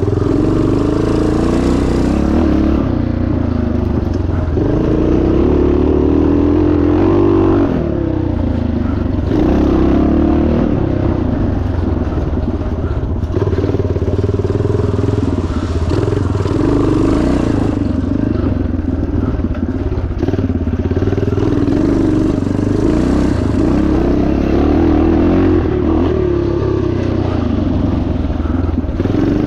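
1977 Yamaha TT500's single-cylinder four-stroke engine running hard under load, its revs climbing and dropping back every few seconds.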